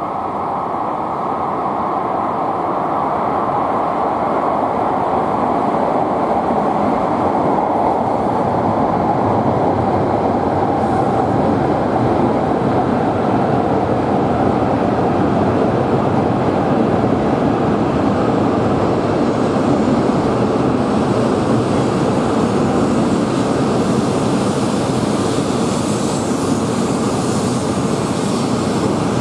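A Tohoku Shinkansen train pulling into a station platform: a steady rush of running and wheel noise that swells over the first few seconds as the train comes in, then holds as the cars slide past.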